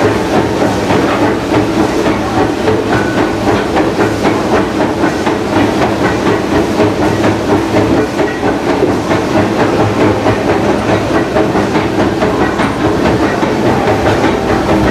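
Disneyland Railroad steam locomotive under way, heard from inside the cab: a steady hiss of steam over a continuous clatter and rattle from the running engine and wheels on the rails.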